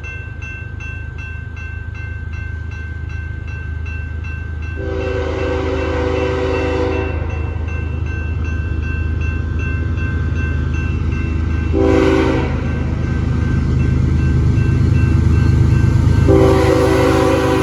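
Approaching diesel freight locomotive running with a steady low rumble that grows louder, sounding its multi-chime air horn: a long blast, a short one, then another long one, the pattern of a grade-crossing warning. A fast, even ringing runs in the background in the first seconds.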